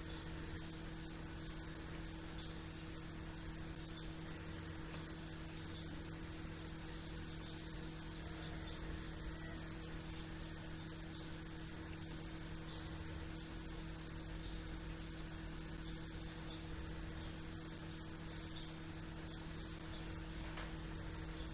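A steady hum and hiss, with faint, scattered short chirps of distant small birds.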